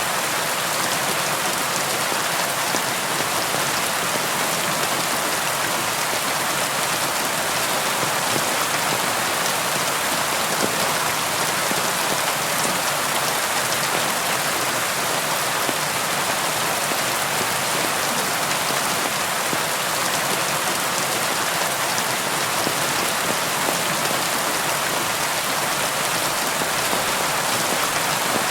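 Steady, heavy rain drumming on a tin roof, a dense even patter with no let-up and no thunder.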